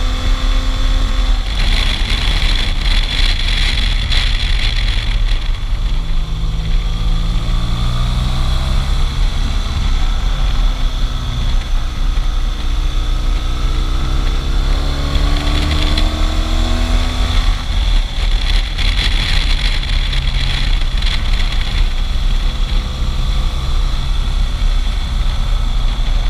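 Motorcycle engine running while riding, its pitch climbing as it accelerates through the gears about six seconds in and again around twelve seconds in, under heavy wind rumble on the camera microphone.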